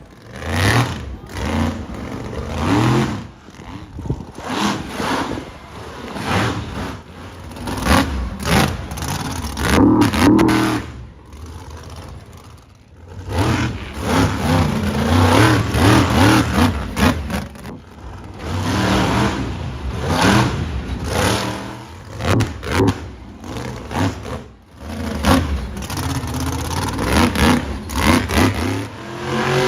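Monster truck engines revving hard in repeated surges, pitch climbing and dropping as the throttle is opened and lifted, with sharp cracks and clatter among them.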